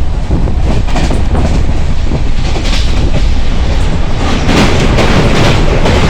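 Train running on the rails: a loud, steady rumble with repeated knocks from the wheels and carriages.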